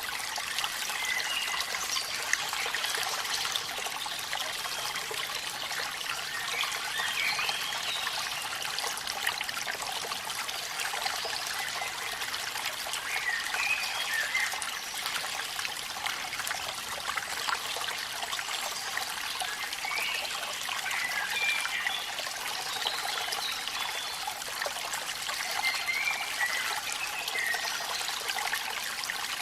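Steady rush and trickle of falling water from a waterfall in the rain, with brief higher-pitched warbling sounds every few seconds.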